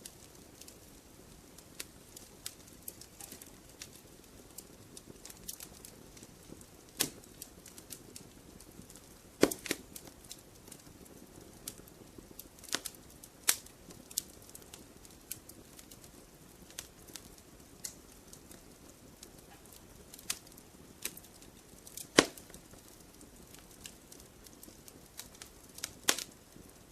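Wood campfire crackling, with irregular sharp pops and snaps over a steady low sound of burning. A few pops stand out loud, the loudest about two-thirds of the way through.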